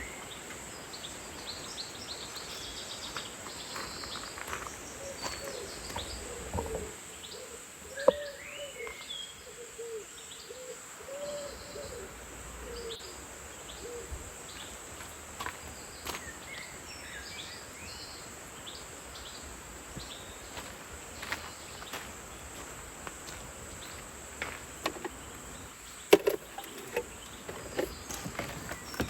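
Forest ambience: a steady high-pitched insect drone under scattered bird chirps, with a run of short low calls about eight to eleven seconds in. Occasional sharp clicks or taps stand out, the loudest about eight seconds in and several close together near the end.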